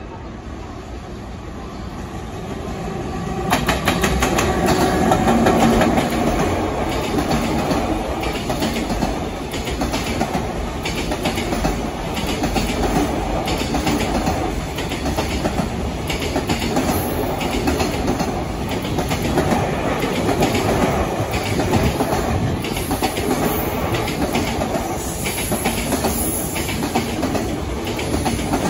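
Long freight train passing, its wheels clacking over the rail joints. The sound swells over the first four seconds as the train comes by, then holds steady, with rapid wheel clicks throughout.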